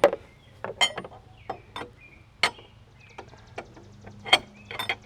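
Large steel wrench clinking and clicking against a bolt and the engine's metal parts as it is fitted and worked: a string of irregular sharp metallic clicks, with a quick run of small clicks about three to four seconds in.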